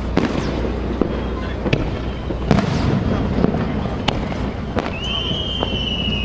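Aerial fireworks bursting: sharp bangs at irregular intervals over a steady background din. About five seconds in, a long high whistle starts and sinks slowly in pitch.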